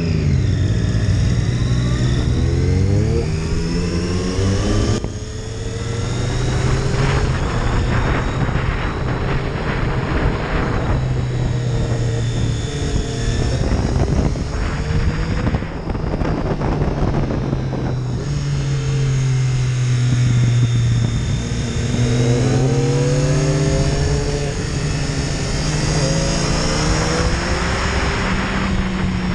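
Triumph Daytona 675's inline three-cylinder engine under way, the revs climbing through the gears and dropping back as the throttle is rolled off, with stretches of wind noise at speed.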